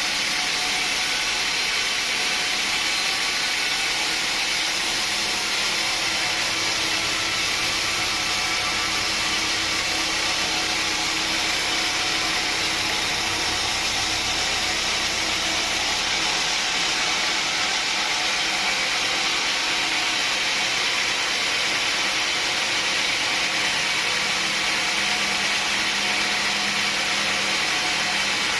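Sawmill machinery running steadily, consistent with a saw cutting through a log; the deep part of the sound is stronger for about nine seconds in the middle.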